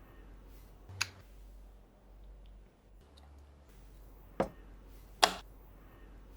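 Three sharp clicks of small plastic toy pieces being handled, set down or snapped into place: one about a second in, then two close together near the end, the last the loudest.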